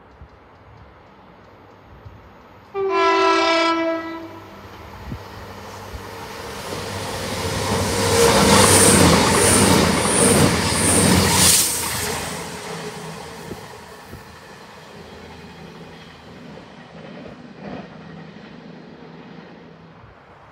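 Passenger train sounding a two-tone horn, a higher note then a lower one, about three seconds in, then running through at speed: the rumble builds, peaks with a run of evenly spaced wheel clicks about every 0.6 s, and fades away.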